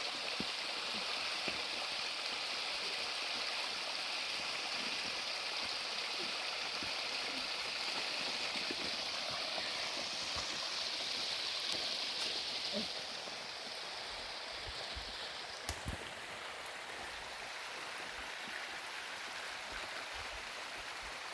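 Steady rushing water noise that eases and dulls about thirteen seconds in, with a single sharp knock a couple of seconds later.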